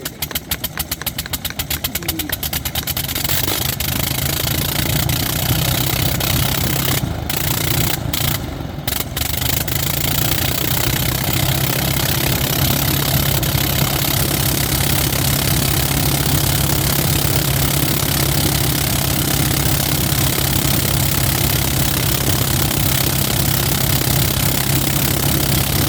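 Rotary aero engine running up: rapid separate firing beats for the first few seconds that merge into a steady, even run at higher speed.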